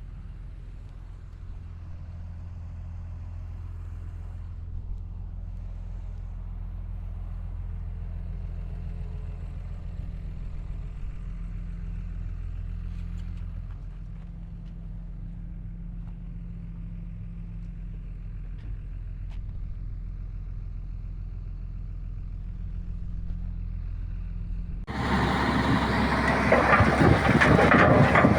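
Bulldozer's diesel engine running steadily at a low, even hum. Near the end a much louder, rougher, noisier sound cuts in suddenly and takes over.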